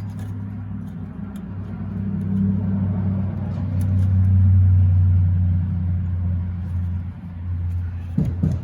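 Steady low hum of a vehicle engine running, growing louder about halfway through and easing off again, with a few short dull thumps near the end.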